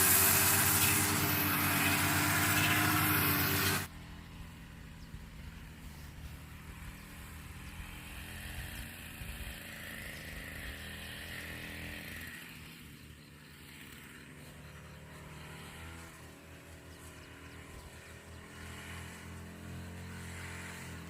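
A small engine running steadily. It is loud at first, then drops abruptly to a lower level about four seconds in and keeps running more quietly.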